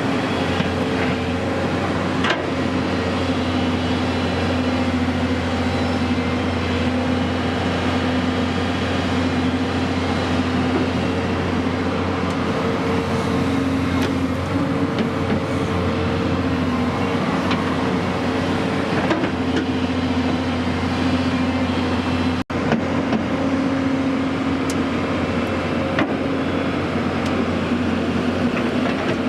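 A heavy diesel engine running steadily, with a constant drone and a split-second gap about three-quarters of the way through.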